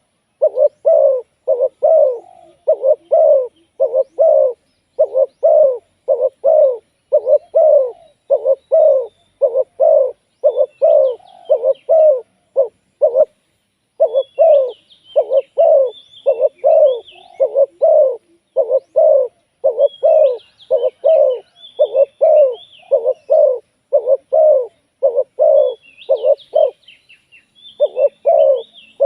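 Spotted dove cooing: a rapid, even string of short coo notes, broken by a short pause near the middle and another near the end. Small birds chirp faintly above it.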